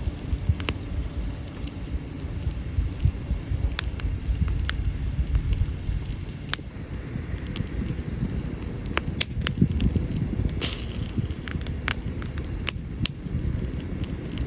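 Campfire of burning wood crackling, with irregular sharp pops and snaps, one with a brief hiss about ten and a half seconds in, over a steady low rumble.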